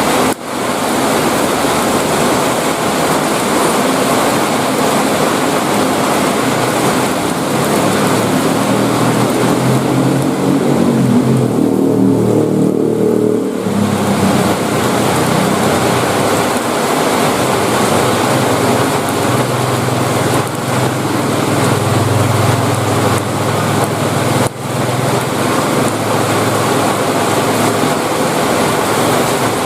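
Heavy rain falling steadily, a dense even hiss. A low droning hum swells up in the middle and again later.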